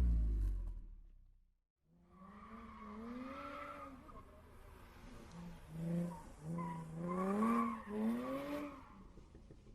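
A Mazda MX-5 NA's four-cylinder engine, breathing through a small BBK cat-back exhaust, drops back from a rev in the first second. After a short silence, a faint voice talks.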